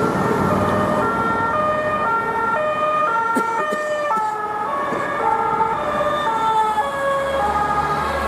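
French police two-tone siren on a car in traffic, alternating a high and a low note about every half second. Its pitch shifts lower about four seconds in. Road traffic runs underneath.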